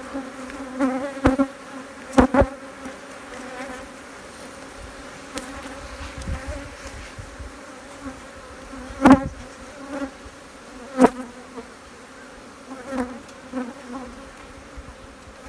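Honeybees buzzing steadily around an opened hive, with single bees now and then buzzing louder close by; the colony is defensive. Several sharp knocks cut through the hum, the loudest about two, nine and eleven seconds in.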